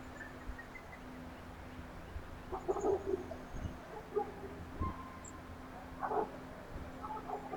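A few short animal calls, the loudest about three seconds in and two more near six and seven seconds, with faint high bird chirps between them over a steady low hum.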